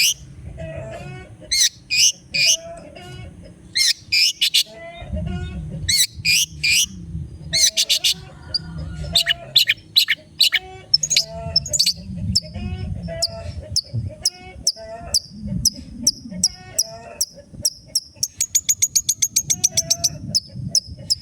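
Long-tailed shrike (cendet) singing: loud, harsh chattering notes in quick clusters, then a fast trill followed by a steady run of short, sharp high notes near the end.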